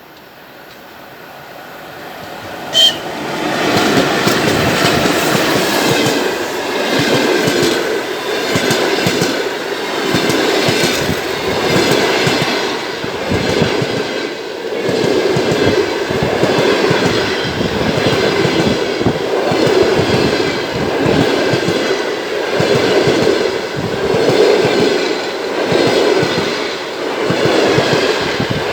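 A long locomotive-hauled passenger train, a ChS7 electric locomotive with its carriages, approaches and passes close by. Its rumble grows over the first few seconds, with a short sharp high sound about three seconds in. The loud wheel noise then swells and dips about every two seconds as the carriages' wheels go over the rail joints.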